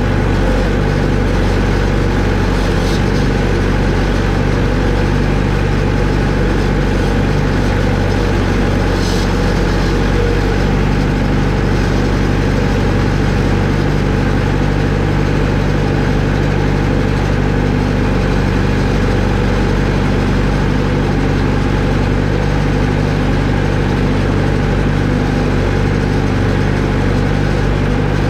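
A vehicle engine idling steadily, with an even, unchanging drone.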